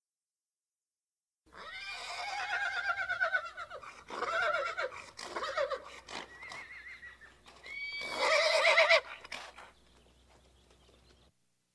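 Horse whinnying: a long quavering whinny that starts about a second and a half in, shorter whinnies after it, and another loud one about eight seconds in.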